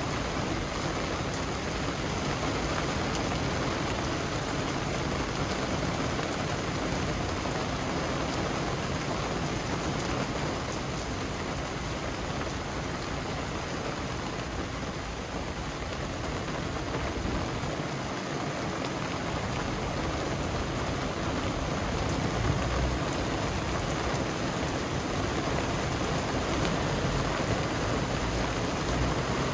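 Heavy downpour falling steadily, a dense even hiss of rain on wet pavement and foliage.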